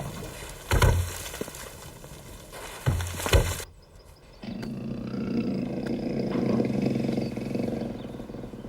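Two loud animal roars, one about a second in and one at about three and a half seconds, followed from about halfway through by a steady music bed.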